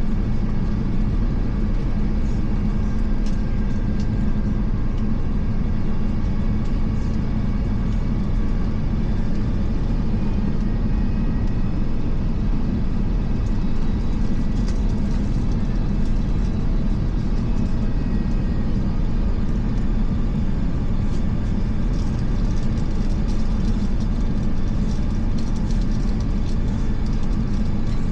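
Steady cabin rumble of an Airbus A350 airliner: its Rolls-Royce Trent XWB turbofans and the rush of air, heard from inside the passenger cabin, with a low hum underneath.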